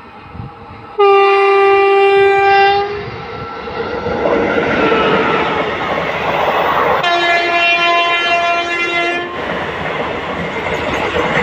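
Horn of a WAP-4 electric locomotive hauling an express train, sounded in two long blasts, the second lower in pitch. Between and after the blasts the coaches rush past at speed with a continuous rumbling roar and wheel clatter.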